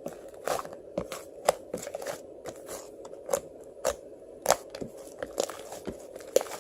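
Frozen bead ice cream crunching and crackling close up, in irregular sharp clicks, about one to three loud ones a second with smaller crackles between, over a faint steady hum.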